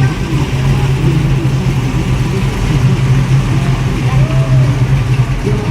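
An engine running steadily at idle, a constant low hum at one pitch, with faint crowd voices behind it.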